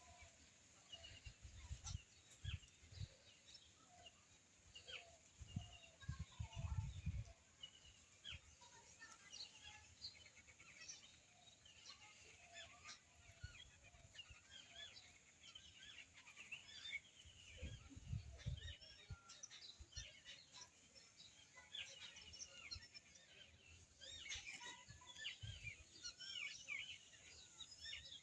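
Faint chirping of small birds, many short calls scattered throughout, with a few low thumps, about a second in, around six seconds in and around eighteen seconds in.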